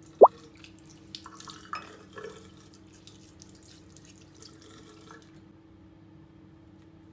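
One loud water-drop plop, rising sharply in pitch, then water running from a tap for about five seconds and stopping, over a steady low hum.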